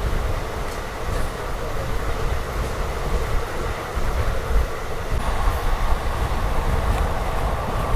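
Passenger express train running at speed, heard from on board: a steady rumble of the wheels on the track, growing a little louder about halfway through.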